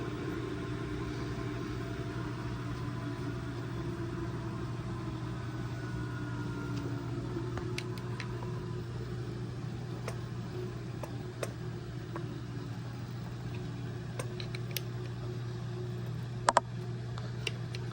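Steady low mechanical hum with a few sharp clicks and taps near the end, the loudest a double click.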